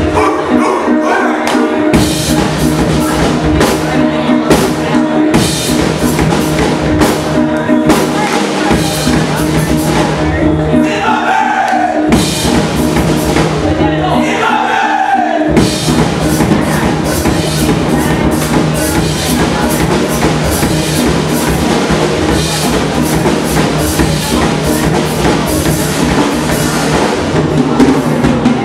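Steel-drum band playing live: steel pans over a steady drum-kit and bass groove, the bass dropping out for a few moments twice.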